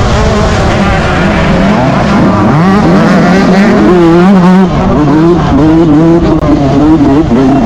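Yamaha YZ125 two-stroke motocross engine racing, revving hard with its pitch rising and falling over and over as the throttle is worked and gears change.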